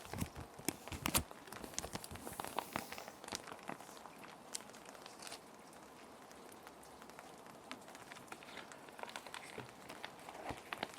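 Plastic sheet protectors crinkling and rustling as paper sheets are handled and slid into them, in short sharp crackles that are busiest in the first few seconds and again near the end. A steady patter of gentle rain runs underneath.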